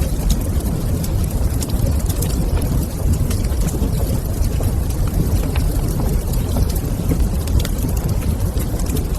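Fire burning in a fireplace: a steady low rumble with scattered sharp crackles.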